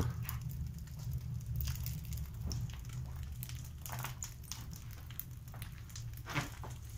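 Wood fire crackling in a fireplace on its first firing, drawing well: scattered pops over a steady low rumble.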